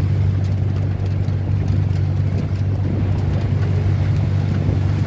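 Steady low rumble of a road vehicle in motion: engine and road noise, with no change in pitch or level.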